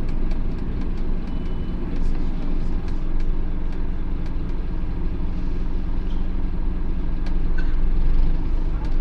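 Scania OmniCity N230UD double-decker bus's diesel engine running steadily, with light scattered rattling clicks.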